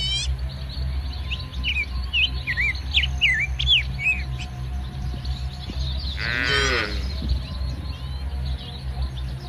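Small birds chirping in a quick series of short notes, then about six seconds in a single call from the cattle herd, about a second long, over a steady low rumble.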